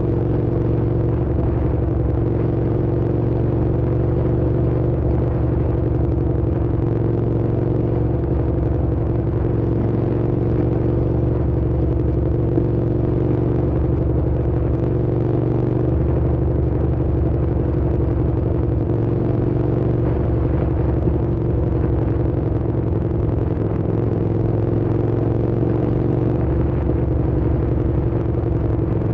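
Hyosung GT650's V-twin engine running steadily at an even engine speed while the motorcycle is ridden, with no throttle blips or gear changes.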